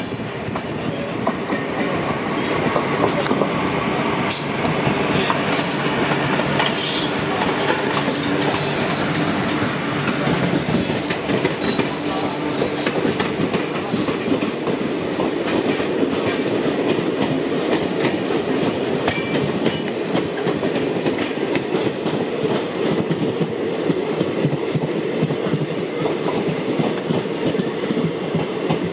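Passenger trains running side by side on parallel tracks, heard from the doorway of one of them: a steady rail rumble with wheels clicking over rail joints and points, and short high wheel squeals in the first half.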